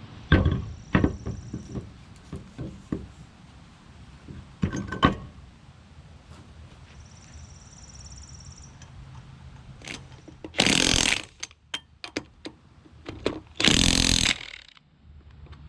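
Two short, loud hisses of compressed air about three seconds apart, typical of an air chuck filling a tire. Clicks and knocks of handling the tools and wheel come before them.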